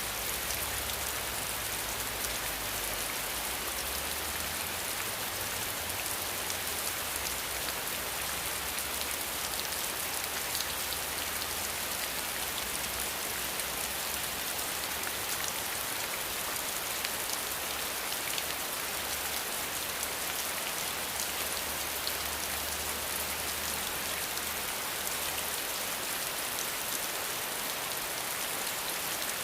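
Steady rain: an even hiss with a dense patter of individual drops, unchanging throughout.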